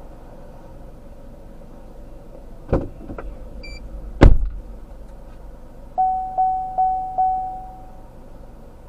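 Vehicle sounds over a steady hum: two thumps, the second one loud, then four quick chimes at the same pitch, each fading away, like a car's warning chime.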